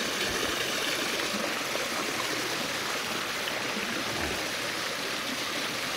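Steady rushing of a flowing stream, an even wash of water noise that holds without a break.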